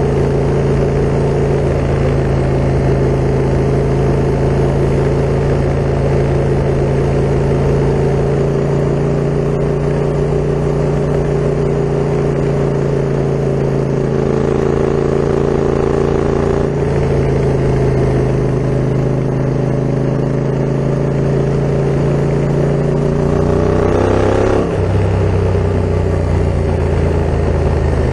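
Yamaha MT-07's parallel-twin engine through an Akrapovic full carbon exhaust, running steadily while riding for most of the time. About three-quarters of the way through it rises in pitch under acceleration, then drops sharply and runs on steadily.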